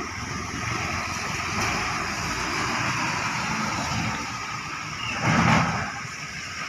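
Road traffic in the rain: a steady hiss of vehicles on the wet road, with one vehicle passing close about five seconds in, the loudest moment.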